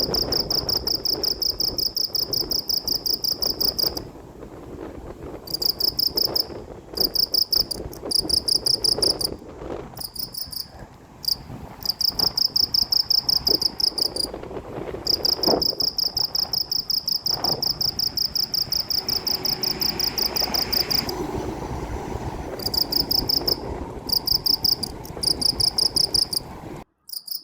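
Cricket chirping: a high, rapidly pulsing trill in runs of about one to three seconds with short breaks between, over a low background rumble.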